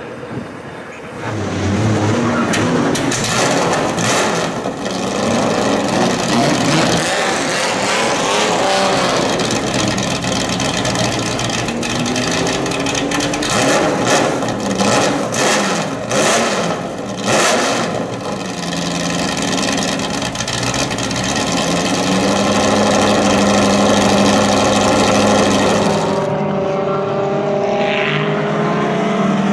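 Racing car engines running hard on a circuit, revving and accelerating past, their pitch rising and falling through the gears with a few sharp breaks. Near the end one engine's pitch climbs steadily as it accelerates.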